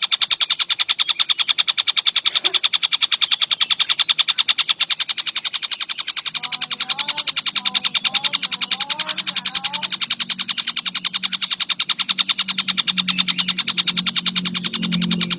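A tengkek buto kingfisher calls in a dense, unbroken rattle of rapid, evenly spaced clicking notes. From about six seconds in, a faint low hum runs underneath, with a few faint chirps.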